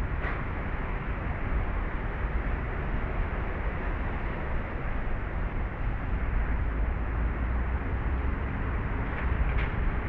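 Steady outdoor background noise with a strong low rumble, and two brief faint higher sounds, one at the start and one near the end.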